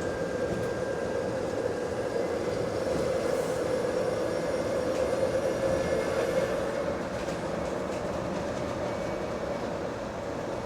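Bus running along the road, heard from inside: a steady drivetrain drone with road rumble underneath, swelling slightly about halfway and easing off near the end.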